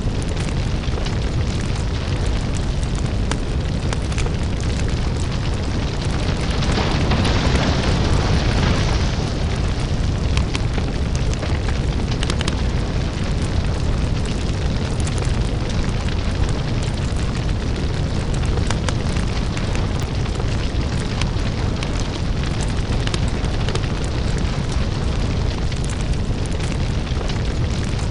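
Crackling lava fire: a deep, continuous rumble thick with small crackles and pops. There is a louder hissing surge about seven seconds in, which then settles back.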